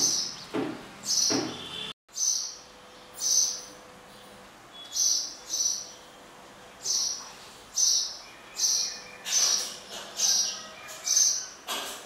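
A small bird chirping repeatedly: short, high chirps at irregular intervals, about one a second, with a brief break about two seconds in.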